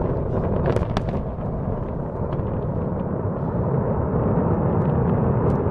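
Steady low rumble of a large explosion, with a few faint sharp cracks about a second in.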